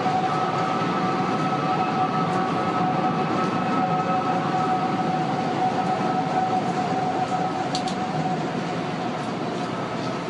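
High-pitched wailing from the unfinished One World Trade Center tower, supposedly made by high winds blowing through the structure. Several steady wailing tones are held together over a loud rush of wind.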